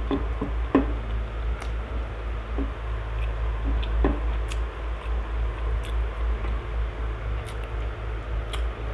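A person eating rice and fried catfish with her fingers: soft chewing with scattered small clicks, over a steady low hum.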